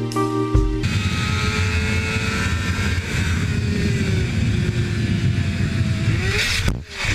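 Motorcycle engine running on the road under heavy wind noise, its pitch sliding slowly down and then back up, after a brief ending of background music in the first second.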